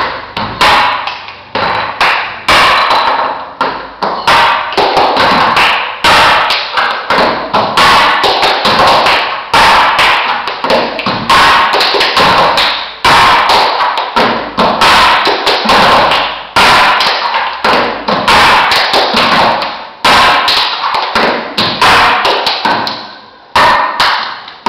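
Drumming on small metal cans (batuque da latinha): many sharp tapping strikes in a steady, driving rhythm with a loud accent about once a second.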